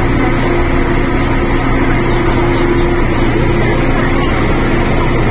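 Steady hum and rush inside a Tung Chung Line CAF train standing at a station platform with its doors open. A couple of low steady tones run through it.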